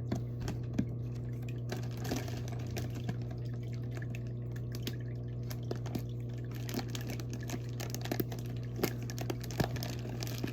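Water splashing and dripping as hands work a plastic fish bag in an aquarium, with scattered small clicks and crinkles, over a steady low hum.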